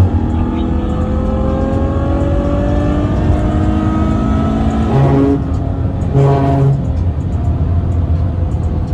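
Ferrari GTC4Lusso's 6.3-litre V12 pulling under acceleration, its note climbing steadily for about five seconds. The note breaks briefly twice, about five and six seconds in, then holds steady.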